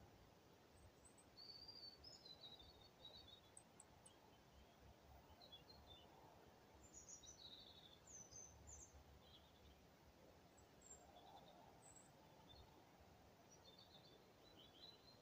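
Near silence with faint birdsong: short chirps and warbled phrases come and go throughout over a quiet outdoor background.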